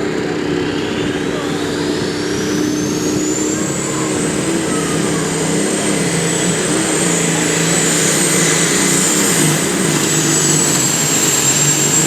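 Super stock turbocharged diesel pulling tractor running hard under load down the track. A high turbo whine climbs over the first few seconds, then holds steady over the engine note.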